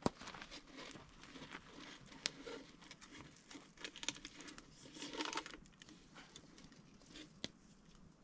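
Faint rustling and crinkling, with scattered small clicks and knocks at irregular moments.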